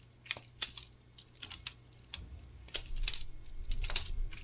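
Boker Plus balisong butterfly knife being flipped: a dozen or so sharp, irregular clicks and clacks as the handles swing and hit the blade's tang and each other.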